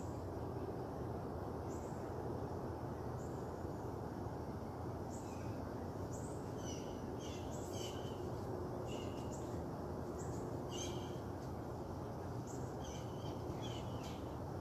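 Birds chirping in short, repeated calls, coming thick from about five seconds in, over a steady low background rush.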